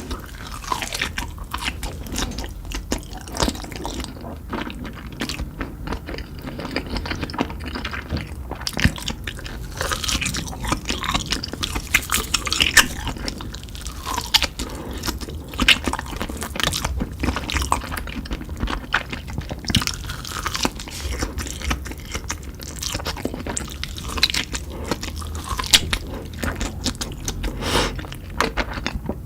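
Close-up eating sounds: someone biting into and chewing Cheetos-crusted meat fingers, with frequent irregular crunches.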